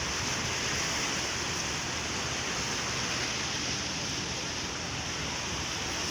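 Sea surf washing against a rocky shore, a steady rushing of water with no distinct breaks.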